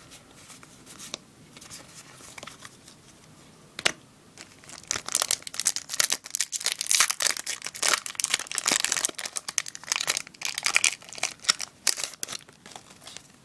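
A Yu-Gi-Oh booster pack's foil wrapper being torn open and crinkled in the hands: light handling at first, then a dense run of crackling from about five seconds in until near the end.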